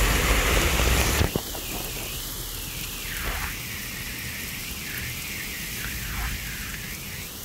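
Heavy rain pouring. It is loud and close for about the first second, then drops suddenly to a softer, steady hiss of rain falling on a wet, flooded street.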